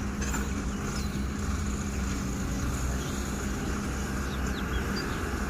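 Heavy diesel machinery engine running steadily with a low rumble; a steady hum in it fades out about three and a half seconds in.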